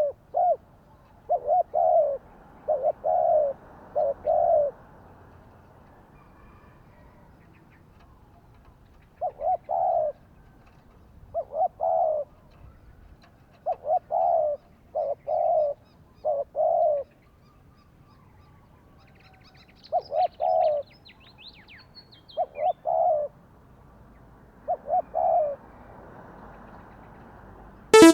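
Spotted dove cooing, repeating short phrases of several low notes with pauses between them. Faint high twittering from small birds joins about two-thirds of the way in, and a sharp click comes at the very end.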